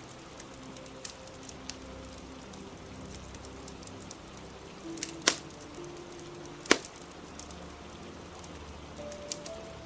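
Crackling fire with small scattered crackles and two sharp, loud pops about a second and a half apart midway, over a steady hiss of rain. Soft, slow music notes are held underneath.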